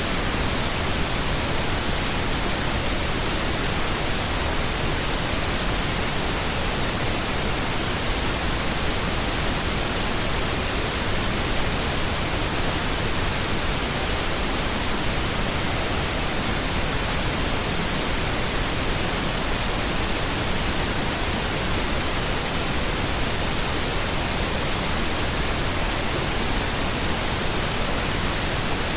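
Steady synthetic pink noise: an even, unchanging hiss across the whole range, with no rises, breaks or other sounds.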